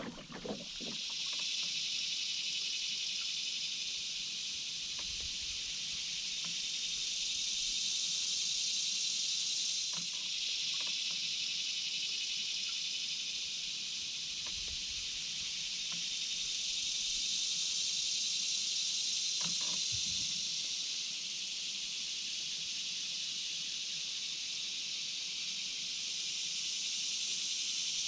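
Chorus of insects such as cicadas: a steady, high buzzing hiss that slowly swells and fades every several seconds, with a couple of faint knocks.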